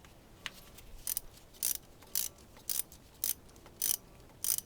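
Socket ratchet turning out a long 12 mm injector-rail bolt: short bursts of ratchet clicking, one on each back-swing, about two a second from about a second in, after a single click just before.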